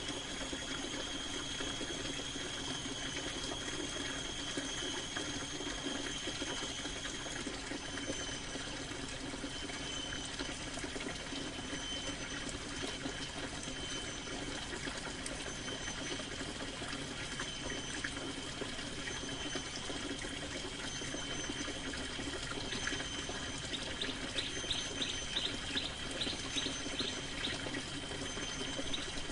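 Steady rain falling on a canvas tent, an even hiss with a thin high tone running through it. Near the end a quick series of high chirps rises above the rain.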